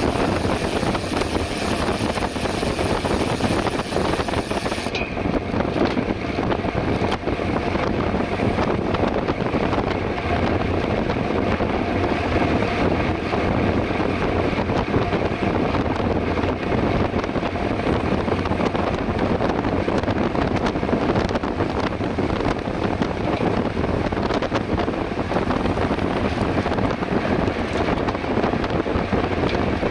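Steady wind rushing over the microphone while riding a mountain bike at race speed, with road and tyre rumble underneath. The highest part of the hiss drops away about five seconds in.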